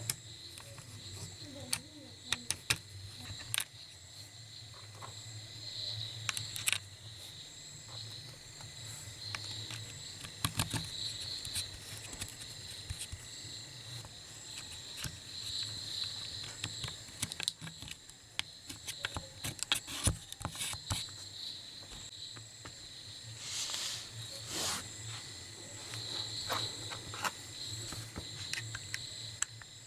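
Steady high insect trilling that swells every couple of seconds, with scattered sharp clicks and taps throughout and a low hum underneath.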